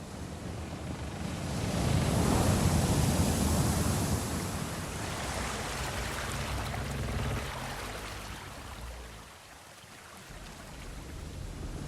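Sea waves washing: a surge of surf noise swells about two seconds in, slowly ebbs to a lull near the end, then starts to build again.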